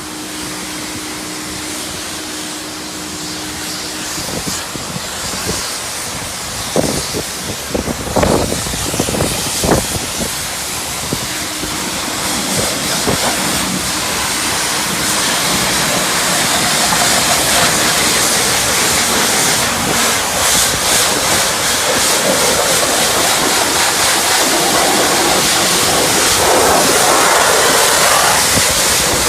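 High-pressure wand at a self-service car wash spraying onto a car: a steady hiss of spray that grows louder about halfway through. A few sharp knocks come about a third of the way in.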